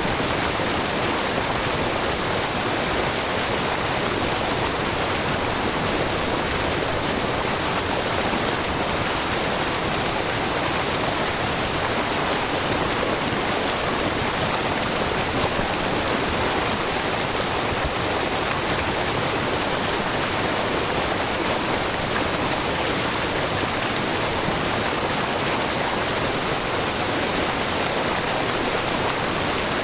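Shiraito Falls, a low, wide curtain of spring water falling over a rock face into a brook, makes a steady rushing noise with no breaks.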